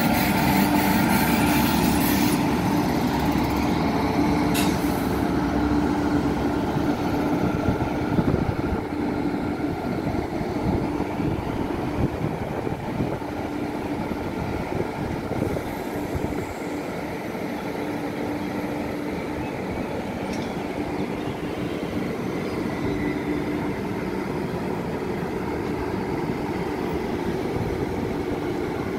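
An Indian Railways WAP-class electric locomotive and its passenger coaches at a platform: a steady train rumble with a continuous hum. It is loudest in the first few seconds, with a sharp click about four and a half seconds in, and eases off a little after about ten seconds.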